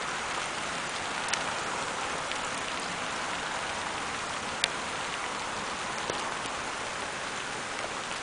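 Light rain shower falling steadily, an even hiss, with a few sharp drip ticks, the loudest about four and a half seconds in.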